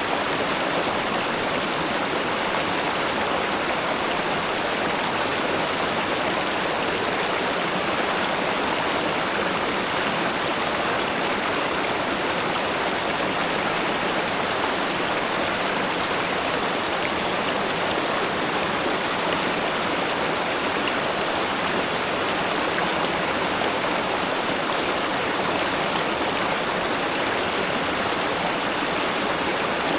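Steady rushing of a river or stream flowing over rocks, an even wash of water noise with no breaks.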